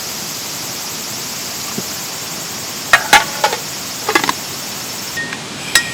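Dishes and utensils clinking as a meal is cleared away, a few sharp clinks from about three seconds in and two more near the end, over a steady high background hiss.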